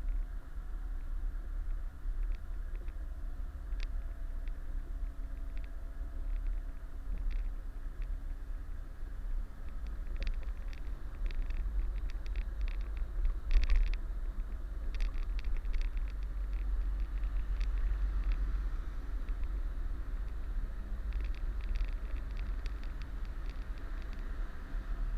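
Kenworth truck's diesel engine running at low revs while the truck reverses, a steady heavy low rumble. Light scattered clicks sound over it, the sharpest about halfway through.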